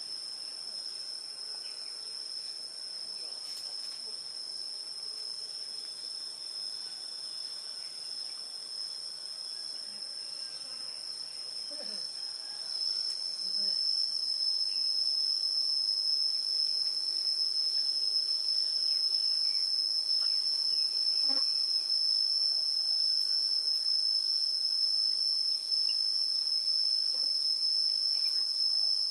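Steady, high, unbroken insect trill, like a chorus of crickets, growing louder about 13 seconds in.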